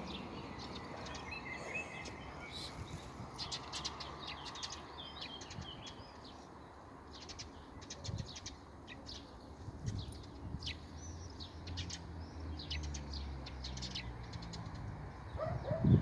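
Wild songbirds chirping, with many short, high calls scattered throughout over steady outdoor background noise. A faint low drone sits beneath them in the second half.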